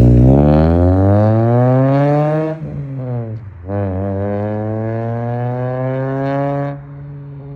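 Honda F23A 2.3-litre four-cylinder engine, breathing through a 4-1 race header, test pipe and Skunk2 MegaPower cat-back exhaust, revving hard as the car pulls away. Its pitch climbs for a couple of seconds, breaks for a gear change and climbs again in the next gear. Near the end the throttle is let off and the level drops to a steadier note.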